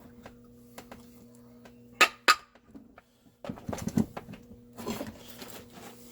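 Chainsaw parts being handled and fitted during reassembly: two sharp clicks about two seconds in, then a couple of seconds of rattling and scraping, over a steady low electrical hum.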